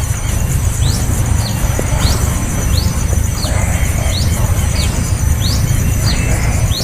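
Young bird's begging calls: short, high rising chirps repeated about twice a second, over a steady low rumble and a high, pulsing buzz.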